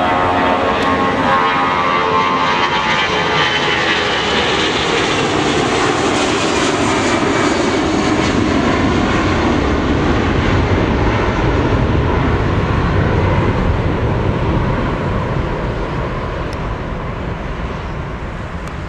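Airbus A340-300's four CFM56 turbofans at takeoff thrust as the airliner passes, the whining engine tones falling in pitch over the first few seconds under a steady loud roar that fades near the end.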